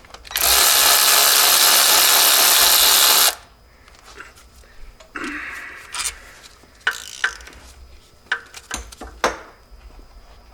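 A power tool runs for about three seconds on the top water pump bolt of a Jeep 2.5L four-cylinder, then stops; after it come scattered metallic clicks and knocks of tools and sockets at work on the bolts.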